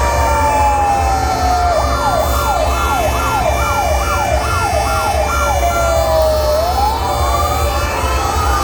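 Several fire engine sirens sounding at once over a low engine rumble. One siren falls in a slow wail, switches about two seconds in to a fast rising yelp of roughly two or three sweeps a second, then goes back to a slow wail that climbs again near the end, while other steady siren tones and a second rising siren sound with it.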